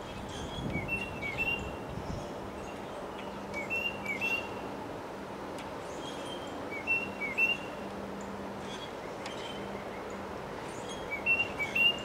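A songbird repeating a short phrase of quick chirping notes about four times, a few seconds apart, over a steady rush of wind.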